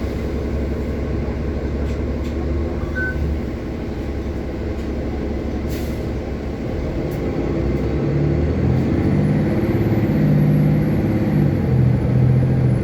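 City bus running, its engine and road noise heard from inside, with a short high beep about three seconds in. The engine note grows louder from about eight seconds in, as when the bus pulls away.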